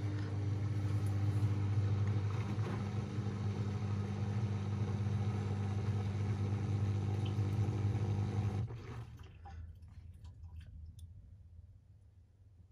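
Washing machine running a mains-powered pump or valve with a steady hum and water rushing, which cuts off suddenly near the end, leaving fainter water sounds and small clicks.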